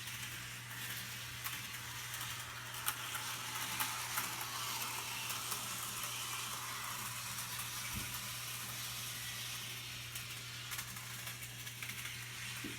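HO-scale model locomotive running a lap of the track: a steady whirr of its electric motor and wheels on the rails, with scattered clicks as it rolls over rail joints.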